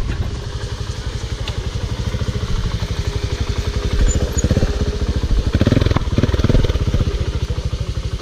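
Off-road motorcycle engine running at low revs with an even, fast throb. It gets louder from about four seconds in, with short surges of throttle until about seven seconds.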